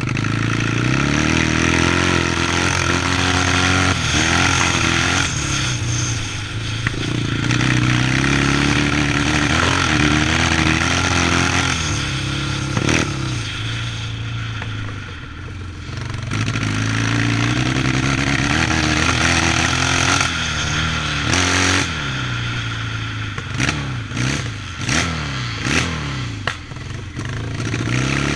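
Vintage Yamaha 650 motocross bike's engine under hard riding, revving up and down again and again. It eases off briefly about halfway through, then gives a string of short quick throttle blips near the end.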